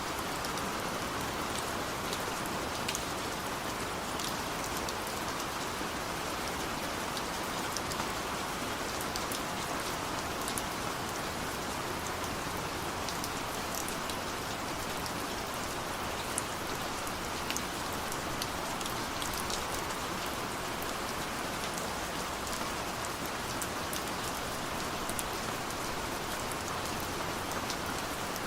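Steady rain falling, with a dense even hiss and the fine patter of individual drops.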